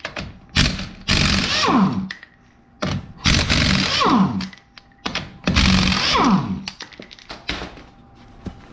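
Impact wrench spinning off the wheel's 19 mm lug nuts in several bursts of about a second each, with the motor winding down in pitch after each trigger release.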